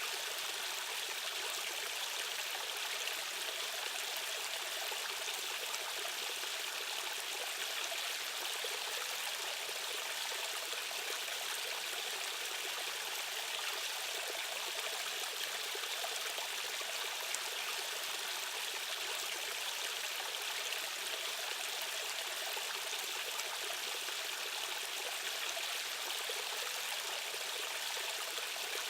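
Flowing stream water running steadily: an even, unbroken rushing hiss with most of its weight in the upper register and little low rumble.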